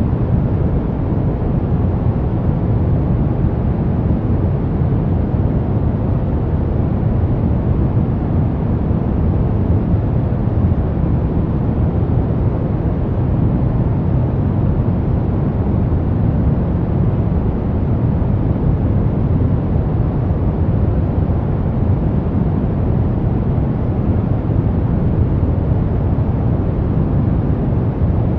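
Brown noise: a steady, deep rumbling hiss, heaviest in the lows and fading toward the highs, with no change or rhythm.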